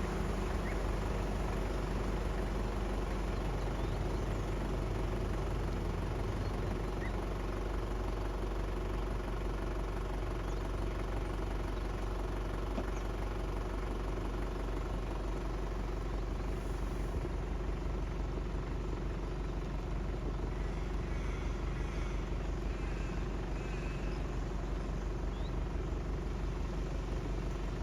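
A steady engine or motor hum that runs evenly without change, with a few faint chirps about two-thirds of the way in.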